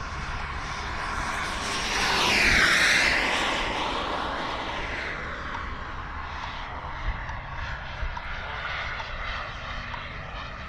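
Turbine engine of a radio-control L-39 Albatross model jet in flight, a hissing whine that swells to its loudest about two to three seconds in as the jet makes a fast low pass, then fades to a steadier, more distant drone.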